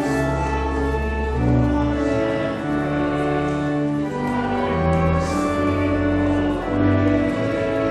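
Pipe organ playing slow, sustained chords over a low bass line, the chords changing every second or so.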